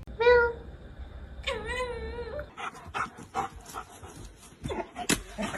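A dog whining: a short high whimper, then a longer wavering whine about a second and a half in. It is followed by a run of short clicks and knocks.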